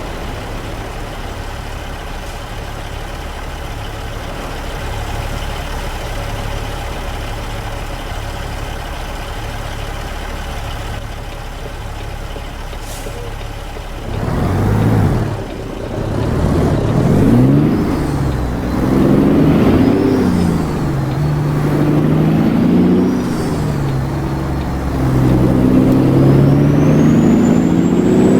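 Straight-piped Caterpillar C15 inline-six in a Freightliner Classic XL semi truck, idling steadily, then about 14 seconds in pulling away and getting louder. Its note rises and falls several times as the driver shifts up through the gears.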